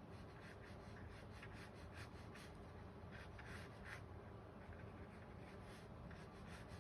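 Faint scratching of a pencil sketching on paper, in short, irregular strokes.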